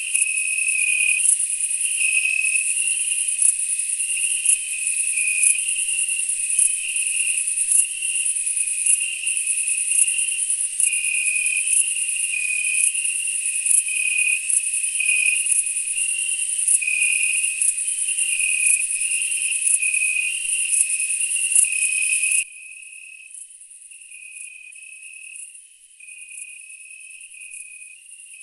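Insects chirping: a dense high trill over a lower, pulsing chirp. The high trill cuts off suddenly about 22 seconds in, leaving the lower chirp fainter.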